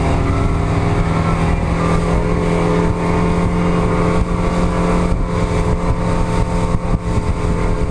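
An engine running steadily at an even pitch, with a rushing noise over it.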